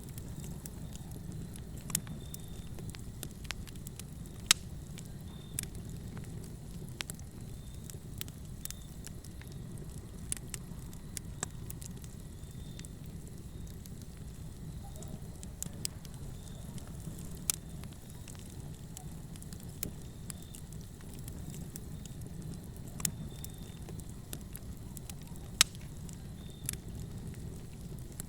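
Fire crackling in a fireplace: a steady low rumble with irregular sharp pops and snaps, two of them much louder than the rest.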